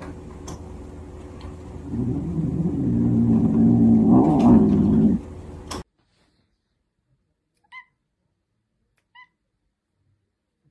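A domestic cat gives a long, low, wavering yowl lasting about three seconds. After an abrupt cut come two short, faint, high mews.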